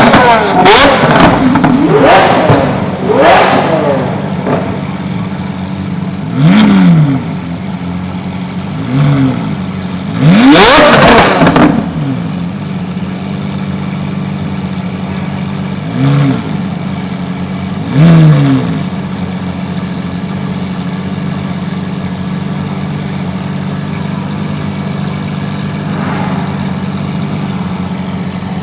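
Lamborghini supercar engines revving: a string of sharp throttle blips that rise and fall in pitch, then single blips every few seconds, with one longer, loud rev about eleven seconds in. After that they settle into a steady, rumbling idle for the rest of the time.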